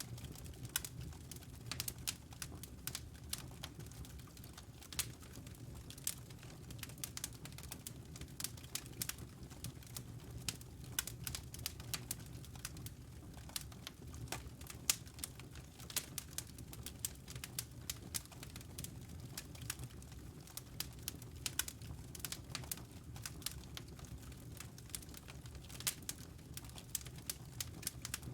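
Wood fire crackling, with many small irregular pops and snaps over a low steady rumble.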